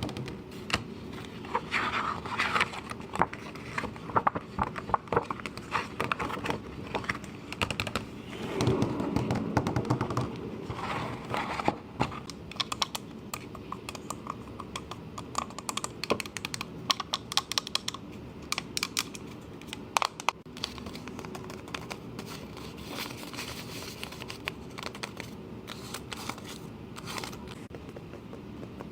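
ASMR trigger sounds: quick, irregular tapping and clicking, with a denser stretch of rustling about eight to ten seconds in.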